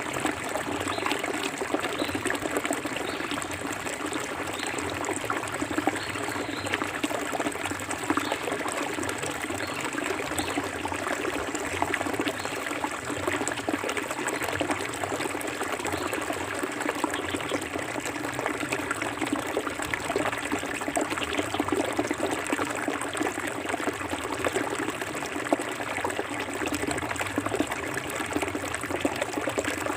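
Clear forest river flowing over stones, a steady babbling and trickling with many small splashes.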